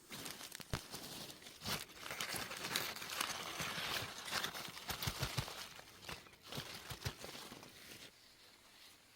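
Irregular rustling and crinkling with scattered sharp clicks, dying down near the end.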